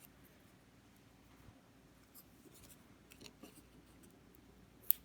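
Faint handling sounds of dry leaves and paper being moved about on a tabletop, with small scattered ticks and one sharp click near the end.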